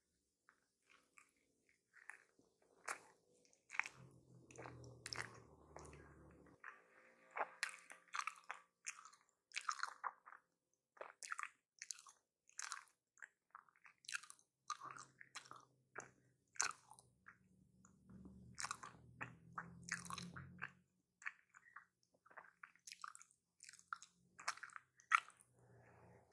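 Close-miked chewing and biting of a footlong hot dog in a bun: a busy run of short, sharp, wet mouth clicks and smacks, with some crunch.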